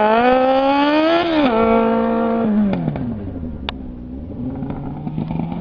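Kawasaki ZX-6R inline-four engine running without mufflers: the revs climb, dip briefly about a second and a half in and hold, then fall away and rise again near the end. A single sharp crack comes a little after the revs drop.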